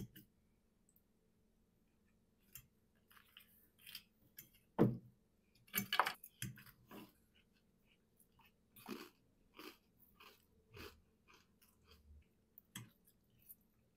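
Close-up eating sounds: chewing of crunchy food such as croutons, mixed with a metal fork clicking and scraping on a ceramic plate, in scattered short bursts. The loudest burst comes about five to six seconds in.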